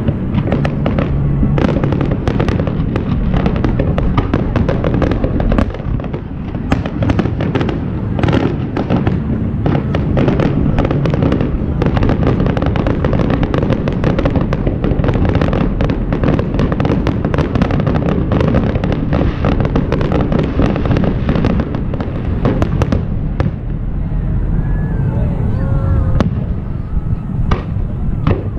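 Fireworks display: a rapid, continuous barrage of bangs and crackles from bursting aerial shells, thinning out to a few scattered bangs in the last few seconds.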